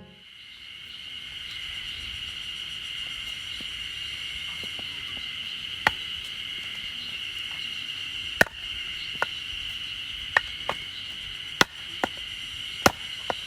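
Insects chirring steadily in a high, even drone, with about eight sharp knocks scattered irregularly through it.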